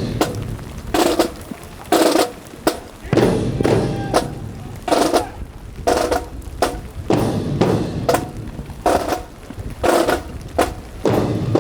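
Drill team's percussion: sharp hits about once a second in an uneven marching rhythm, each ringing briefly, over a low hum.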